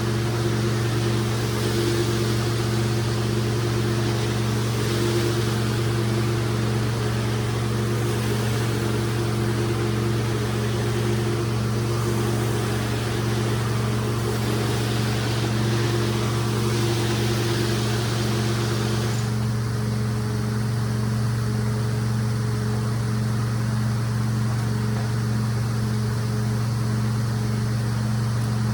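Hot-water extraction carpet-cleaning machine running with a steady hum, under a rushing hiss that swells and fades several times. About two-thirds of the way through the hiss drops away, leaving the machine's steady hum.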